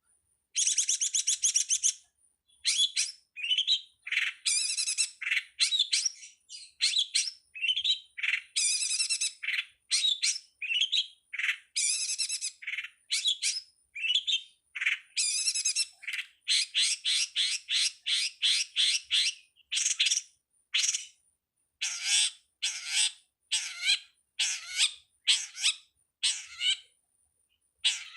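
Long-tailed shrike (pentet) singing a varied song of harsh, buzzy phrases mixed with quick runs of short chirps, then a series of evenly repeated notes near the end.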